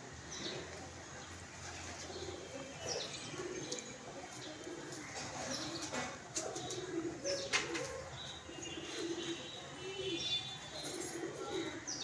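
Birds calling: a low call repeated many times, with a few short high chirps and a couple of sharp clicks.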